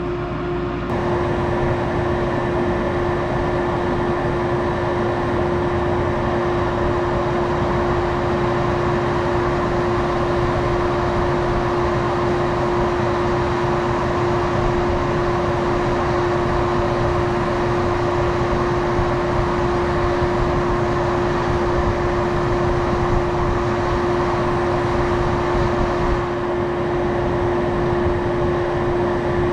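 Farm machinery running steadily, a continuous mechanical drone with one strong constant hum through it.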